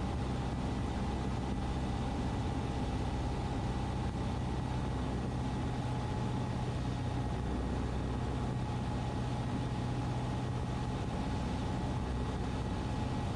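Cessna 150's Continental O-200 four-cylinder engine and propeller droning steadily inside the cockpit on final approach.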